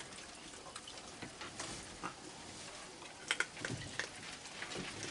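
Rain falling steadily, an even hiss and patter, with scattered light clicks and taps and a few sharper clicks about three and a half seconds in.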